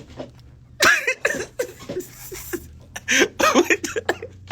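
A person laughing in short bursts, about a second in and again from about three to four seconds in.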